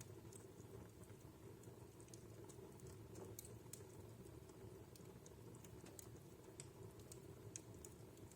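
Wood fire burning in a home fireplace, crackling faintly: small sharp pops at irregular intervals over a low, steady rush of the flames.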